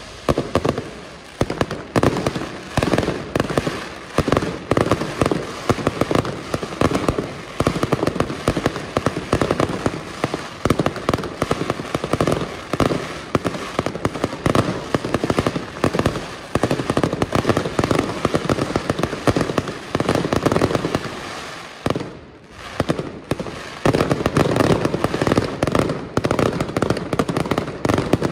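Aerial fireworks display: a dense, continuous barrage of shell bursts and crackling. There is a brief lull about three quarters of the way through, then the bangs resume.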